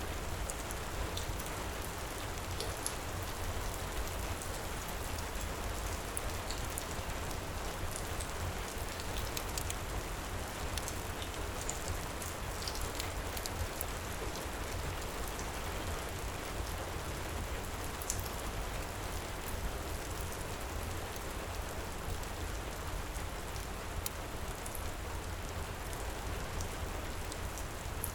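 Heavy rain pouring steadily, a dense even hiss with a low rumble underneath and scattered small sharp crackles.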